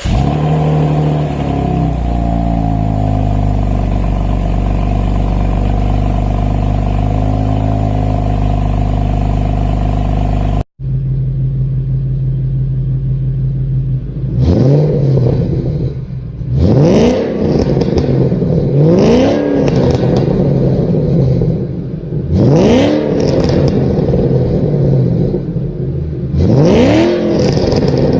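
A high-performance car engine idling loudly through its exhaust. After an abrupt cut, a car engine idles and is blipped about five times, each rev rising sharply and dropping back to idle.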